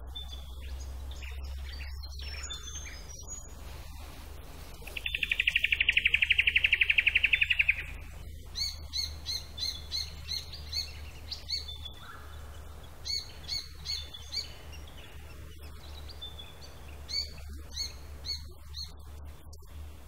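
Small bush birds calling. A loud, very fast trill lasts about three seconds, about a quarter of the way in. After it come several bouts of short, sharp, high chirps, about three a second.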